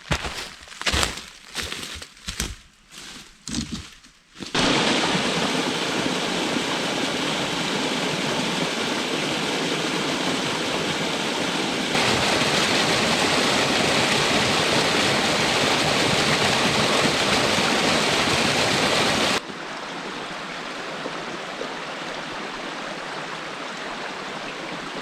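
A few crunching footsteps, then steady rushing water from a woodland stream and waterfall. The water noise jumps louder suddenly about halfway through and drops back near the end.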